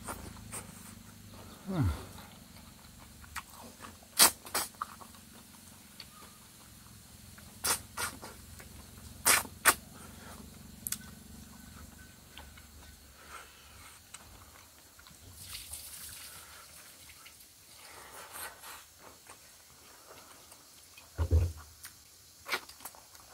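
A man eating with his hands close to the microphone: wet chewing with scattered sharp lip-smacks and mouth clicks, and a short low grunt near the end.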